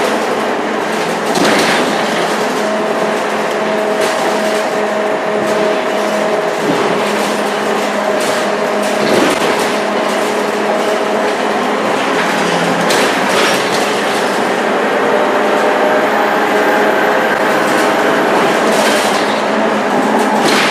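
Inside a moving Scania K230UB bus: its diesel engine and ZF automatic gearbox running steadily under way, a drone with a steady whine over road noise. A few short rattles and knocks from the bodywork come through now and then.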